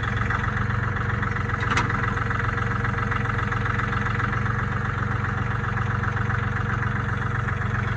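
Three-cylinder diesel engine of a John Deere 3203 compact tractor idling steadily, with a single sharp click about two seconds in.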